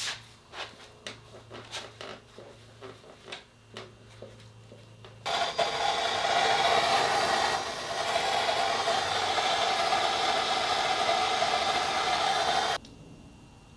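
Light metal tool clinks for about five seconds. Then a power impact wrench rattles steadily on a stuck engine bolt for about seven seconds and stops abruptly.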